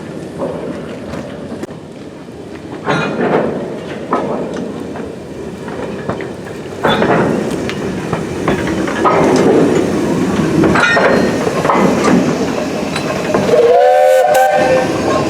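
Steam locomotive running with a train: a rumbling exhaust and running noise with irregular heavier strokes. Near the end comes a short blast on the steam whistle, about a second long.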